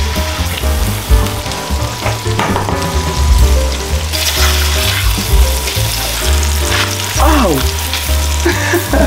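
Breaded chicken cutlets frying in hot oil in a cast-iron skillet, sizzling steadily, with the hiss growing stronger about halfway through. A bass-heavy music track plays underneath.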